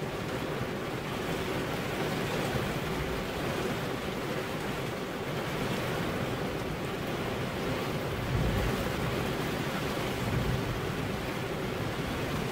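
Heavy rain falling steadily as an even hiss, with a brief low rumble swelling about eight seconds in.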